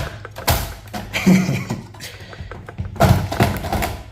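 Knocks and clattering as metal server parts are handled and set down, in three spells over a steady low hum.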